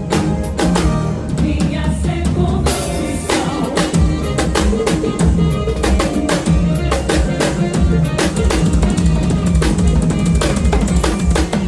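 Drum kit played in a fast, busy groove with bass drum and snare hits, over band music with sustained low notes.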